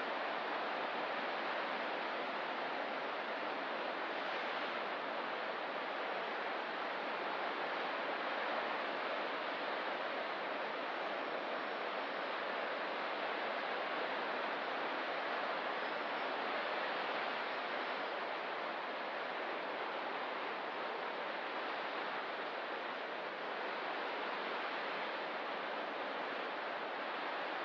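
Ocean surf on a rocky coast, a steady, even rushing wash with only slight swells and no distinct wave breaks.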